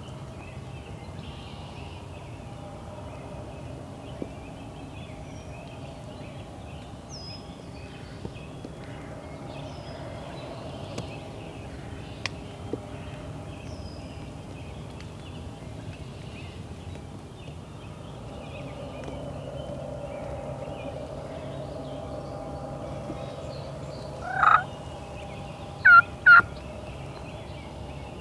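Wild turkey gobbler gobbling loud and close near the end, followed about a second and a half later by two short, sharp calls in quick succession. Earlier there are only faint high chirps over a steady low hiss.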